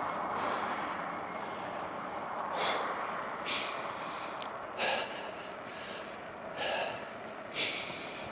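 A cyclist's heavy breathing while pedalling: about five hard exhalations, roughly a second apart, over a steady rushing noise of wind and tyres.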